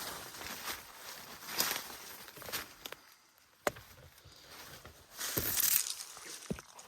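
Irregular footsteps and rustling through leaf litter and undergrowth, with a sharp click about halfway through.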